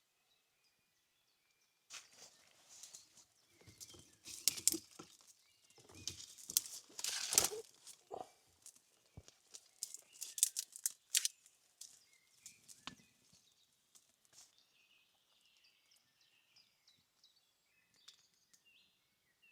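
Rustling and sharp crackling of twigs and dry leaves in quick irregular bursts, starting about two seconds in and dying away after about twelve seconds. Faint bird chirps follow near the end.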